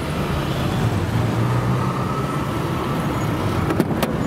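Steady low hum of a motor vehicle engine running close by, with street traffic noise. There are a couple of sharp clicks near the end.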